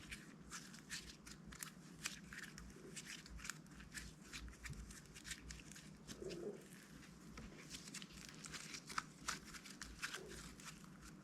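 Slime being worked by hand: a faint, continuous string of small irregular crackles and clicking pops.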